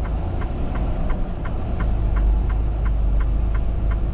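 Truck engine idling with a steady low rumble, while the hazard-light flasher ticks evenly at about three ticks a second.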